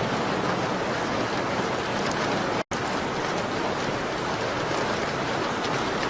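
Steady heavy rain on a window glass, with faint light crackles of a fireplace. About two and a half seconds in, the sound cuts out completely for an instant.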